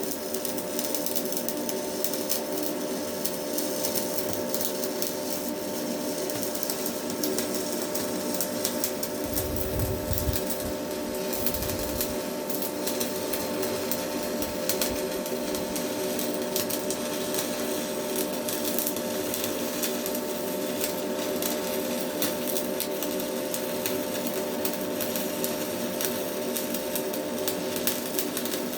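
Stick welding arc burning a Hilco electrode along a pipe-to-plate joint: a steady crackling sizzle with a faint hum beneath. A low rumble comes in for a couple of seconds about ten seconds in.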